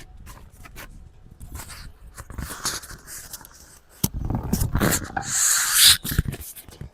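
Hand tools working on engine parts: a run of clicks and knocks with scraping, the loudest scrape about five seconds in.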